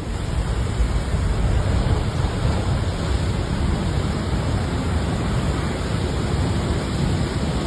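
Steady rushing, churning water noise as a train ploughs through floodwater covering the tracks.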